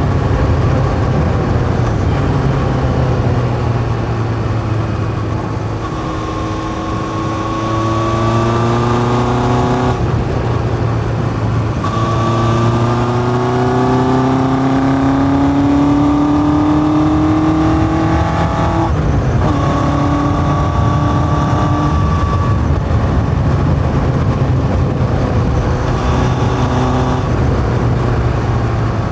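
1981 Yamaha XJ550 inline-four motorcycle engine with open K&N pod filters and a 4-into-1 exhaust, running on the road. Its pitch climbs in long sweeps as it accelerates through the gears, with short breaks at gear changes, the clearest about 19 seconds in, then it settles to a steady cruise.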